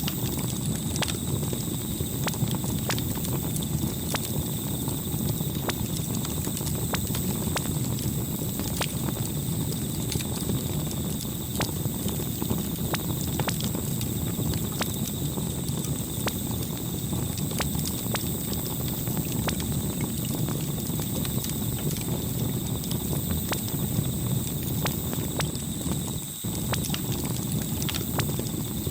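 Campfire burning: irregular sharp pops and crackles over a steady low rumble.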